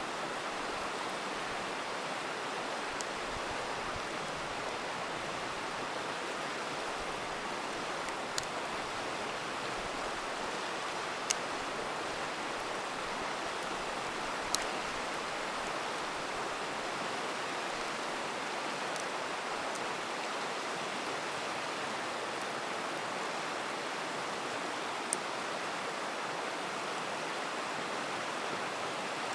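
River rushing steadily, with about half a dozen sharp pops from a crackling campfire scattered through it.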